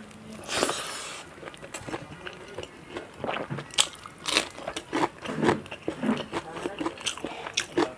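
A person eating close to the microphone: biting and crunching, with chewing and many irregular mouth clicks, and a longer crunch about half a second in.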